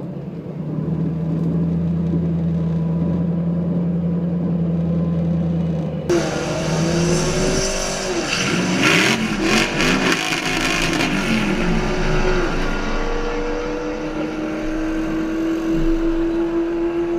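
Car engine held at steady revs on a drag strip start line, then about six seconds in the car launches: the engine note climbs and drops through several gear changes under heavy wind and road noise, then holds at high revs near the end of the run.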